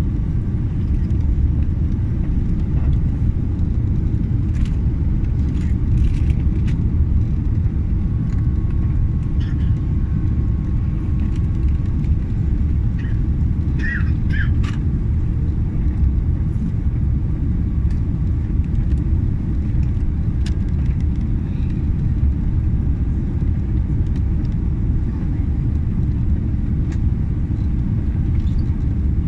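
Steady low outdoor rumble with no build or fade, with a few faint short higher sounds scattered through it.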